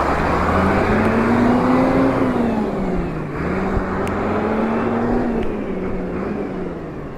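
New Holland 7840 tractor's six-cylinder diesel engine driving off under load. Its pitch rises for about two seconds, drops sharply about three seconds in, picks up again, then slowly falls as the sound grows fainter toward the end.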